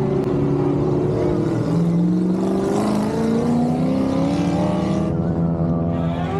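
Drift cars' engines revving on the track, their pitch rising and falling as the cars slide. The sound changes abruptly about five seconds in.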